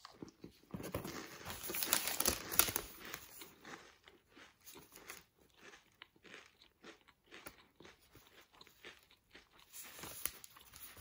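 Someone chewing a crunchy yeast-dough cheese pastry stick. The crunching is loudest in the first few seconds, then settles into fainter chewing.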